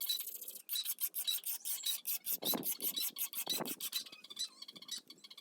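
Quick, even back-and-forth rubbing strokes, like sanding or rasping by hand, thinning out near the end.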